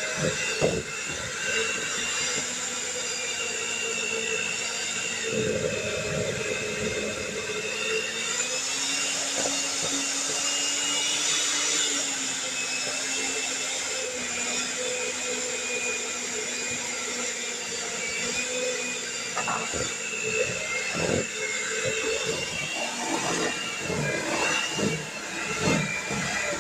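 Electric mixer running steadily through a thick powdered-sugar frosting. Its motor hum rises a little in pitch partway through and then settles. Short knocks, like the beaters tapping the bowl, come near the start and again toward the end.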